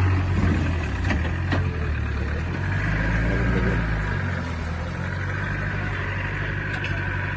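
Land Rover Discovery's engine running at low, steady revs, with two sharp knocks a little after a second in.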